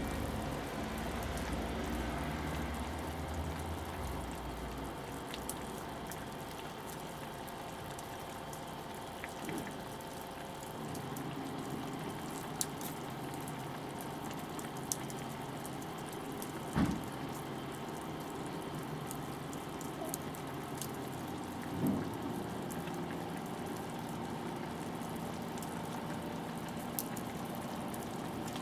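Wood fire with a pot simmering over it: a steady bubbling, watery hiss with scattered sharp crackles, and two brief dull knocks in the second half.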